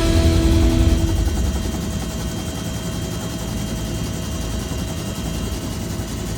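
Bell UH-1 Huey helicopter running, its rotor giving a steady rapid chop with a thin steady whine above it. The tail end of a piece of music fades out about a second in.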